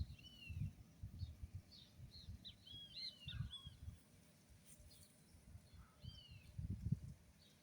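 Wild birds chirping faintly: short, arching chirps, several in a quick cluster midway and another pair near the end. Under them run irregular low thuds and rumbles.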